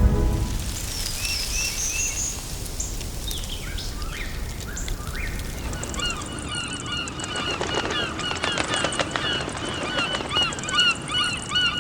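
A flock of birds calling, many short repeated calls overlapping, growing dense from about six seconds in. A few high chirping notes come in the first two seconds.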